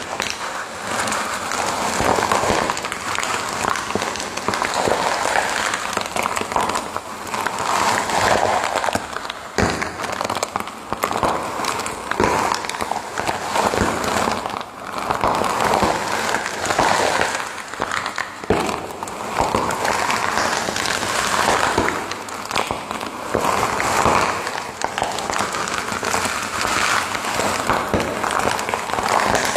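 A fire crackling: dense, irregular pops and snaps over a hiss that swells and fades every couple of seconds.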